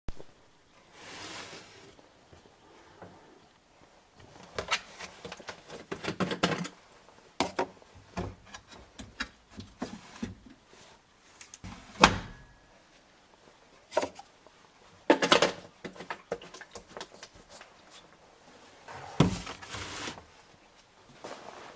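Irregular knocks and clunks of something being handled, heard as a dozen or so separate thuds with short rustles between them. The sharpest knocks come about twelve and fifteen seconds in.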